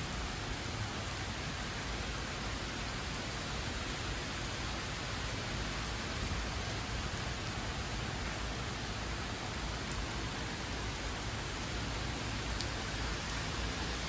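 Steady rain falling on trees, grass and paving, an even, unbroken hiss.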